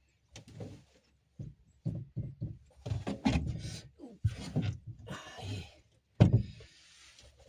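A run of knocks and thumps with short scraping stretches as a small 12-volt compressor fridge is pushed and shifted into its cabinet space, with the loudest, sharpest thump about six seconds in.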